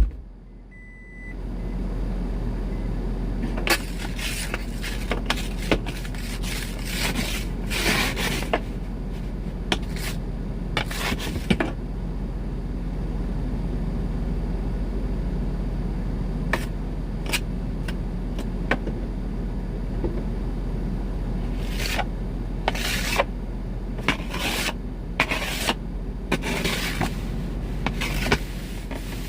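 Hand ice scraper scraping snow and ice off a car windshield in quick irregular strokes, over a steady low hum from the running car. A loud knock comes at the very start.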